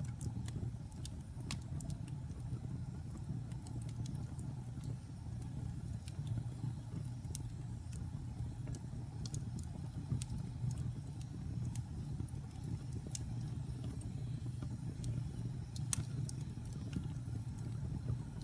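Wood fire burning in a fireplace: a steady low rumble of the flames with scattered sharp crackles and pops, one of the louder pops about 16 seconds in.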